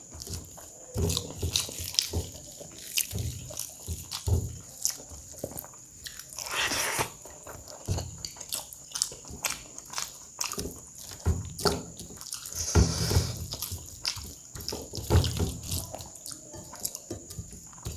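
Close-miked eating sounds: a person chewing and biting a mouthful of rice and curry, with irregular wet smacks and clicks of the mouth.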